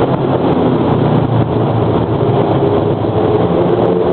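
Motorcycle engine running at a steady, even note while riding, through a loud muffler.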